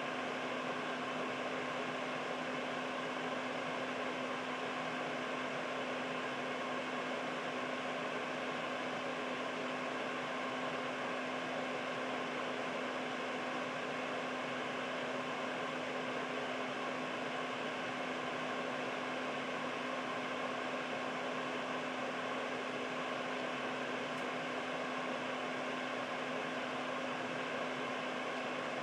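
Air purifier running steadily: an even whoosh of air from its fan with a steady low hum underneath.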